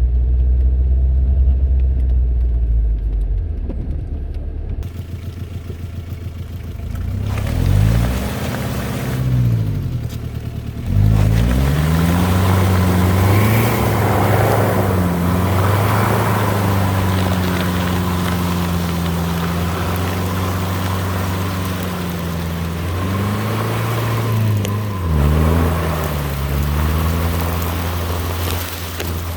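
Jeep Cherokee XJ's 2.5 L four-cylinder VM Motori turbo diesel working on a trail. It opens as a deep rumble, revs up and back down twice, then settles into a steady pull with a rushing noise over it for a few seconds.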